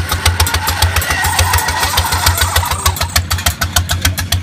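International Harvester engine on a homemade rat-bike chopper running with a rapid, even thudding beat as the bike pulls away.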